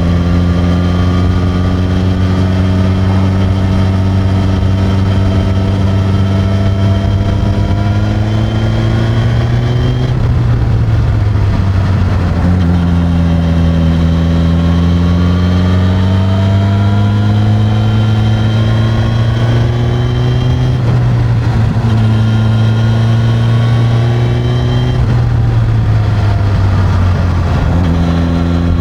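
Suzuki GSX-S1000's inline-four engine through its stock exhaust, running under way. Its pitch slowly climbs, falls away about a third of the way in, climbs again, and dips briefly a few more times toward the end as the throttle is eased and reopened.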